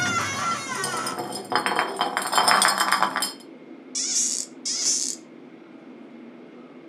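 A glass milk bottle that has tipped over rings as it settles, then rattles as it rolls across a hard tiled floor for about two seconds. Two short hissing sounds follow, about four and five seconds in.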